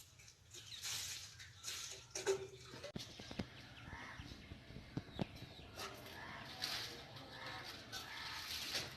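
Pigeons stirring at a nest: irregular rustling and shuffling with scattered light knocks and clicks.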